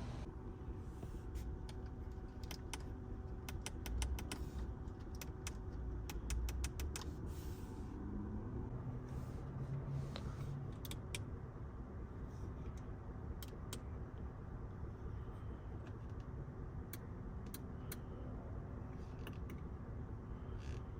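Many small sharp clicks, in quick runs for the first ten seconds or so and scattered after that, over a low steady hum.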